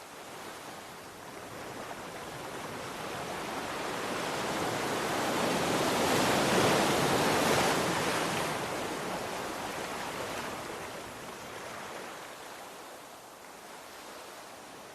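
Sea waves: one wave surges in, loudest about halfway through, then washes back and fades.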